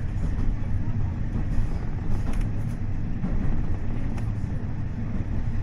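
KiHa 40 diesel railcar in motion, with its DMF15HSA diesel engine: a steady low rumble of engine and wheels on rail, with a few faint clicks.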